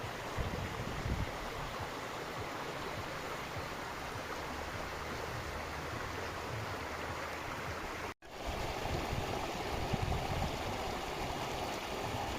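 Steady rush of running water, with gusts of wind thumping on the microphone. The sound cuts out for an instant about eight seconds in, then carries on.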